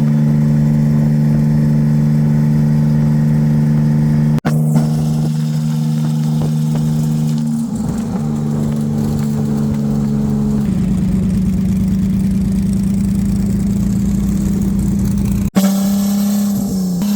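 Vehicle engine droning at a steady road cruise. Its pitch steps to new levels partway through and falls away near the end. The sound breaks off for an instant twice.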